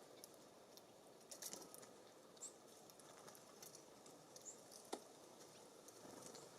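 Small birds at a wooden feeding station: faint scattered taps and clicks, with a sharper tap about five seconds in, and a few brief, very high chirps.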